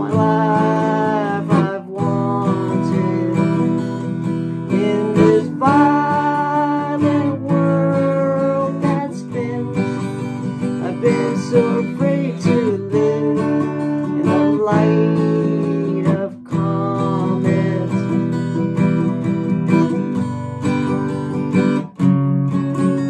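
Acoustic guitar strummed steadily through chord changes in a folk song, with a held melody line sounding above the chords.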